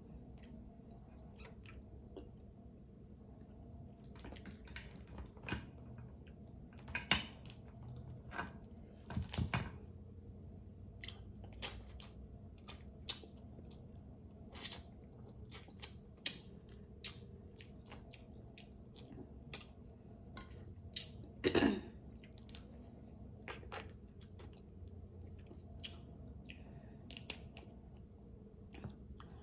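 Close-up eating of king crab: chewing and wet mouth sounds, with scattered sharp clicks and cracks of crab shell being broken apart. The loudest cracks come about seven seconds in and again a little past twenty seconds.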